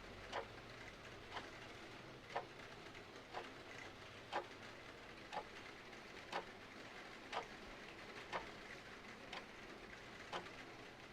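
Mechanical clock ticking about once a second over a steady hiss of rain.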